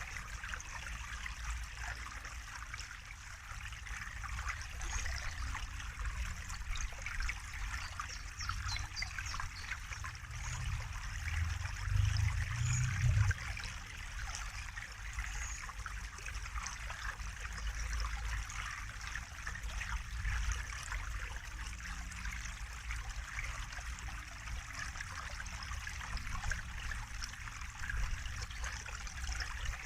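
Water trickling steadily, with many small splashes and drips through it. A low rumble underneath swells for a couple of seconds around twelve seconds in.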